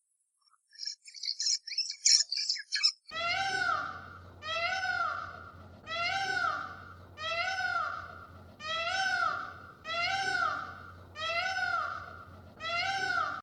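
A few seconds of quick, high chirps, then an animal calling over and over: eight near-identical high-pitched calls, each rising then falling in pitch, spaced about every second and a half.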